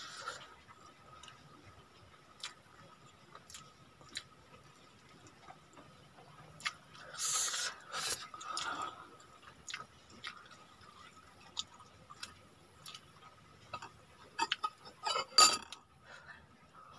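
Close-up eating sounds of a person chewing rice eaten by hand: scattered wet mouth clicks and smacks, with a longer stretch of mouth noise about seven seconds in and a quick run of clicks near the end, over a faint steady high hum.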